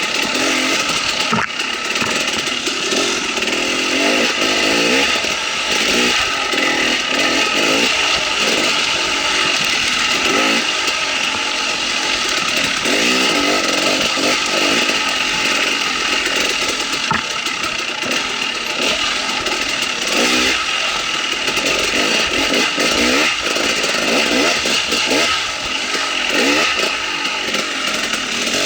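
KTM 300 XC-W's single-cylinder two-stroke engine revving up and down as the dirt bike is ridden on a trail.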